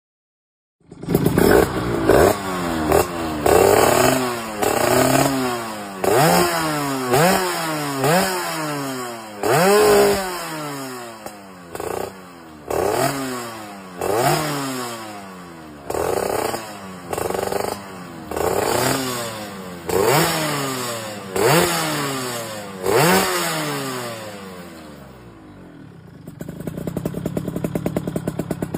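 Yamaha F1ZR two-stroke single-cylinder engine through a KEN2 racing muffler, blipped over and over, each rev climbing sharply in pitch and falling back, about once a second. Near the end it settles to a steady, rattly idle.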